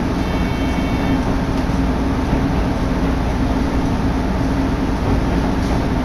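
Kururi Line diesel railcar running at speed: steady engine and wheel noise with wind rushing in at an open window. A faint high whine sounds for about a second near the start.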